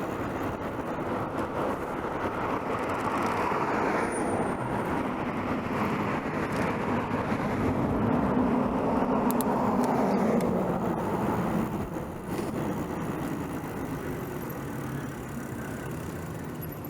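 Street traffic heard from a bicycle: a motor vehicle passes close by, getting louder to its peak about eight to ten seconds in, dropping slightly in pitch, then fading. Steady road noise runs underneath.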